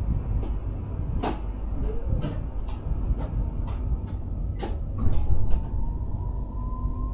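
Electric Sprinter train running, heard in the driver's cab: a steady low rumble with a string of sharp clicks and knocks from the wheels on the track. About five seconds in there is a brief louder patch, then a thin whine that rises slowly in pitch.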